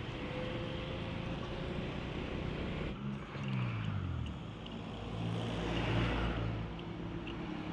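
Honda ADV 160 scooter's single-cylinder engine running with road noise. About three seconds in the sound changes abruptly, the engine note falls as the scooter slows, and it settles into a steady idle.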